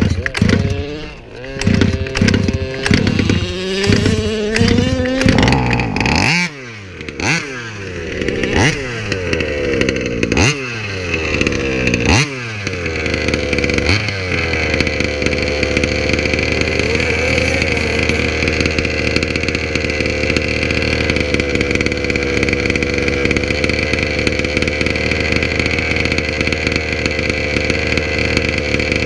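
38cc two-stroke engine of a King Motors Baja 5b RC car with an Olimat tuned pipe, blipped repeatedly so the pitch rises and falls several times over the first dozen seconds, then running at a steady high pitch for the rest.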